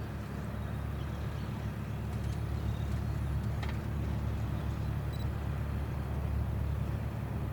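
Steady low engine rumble that stops abruptly at the very end, with a faint click about halfway through.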